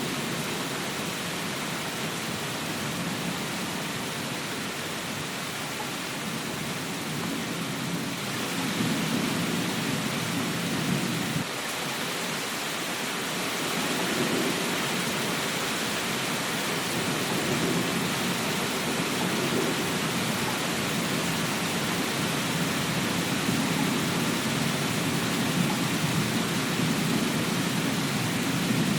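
Steady rain, an even hiss, with low rumbles of thunder that swell and fade every few seconds.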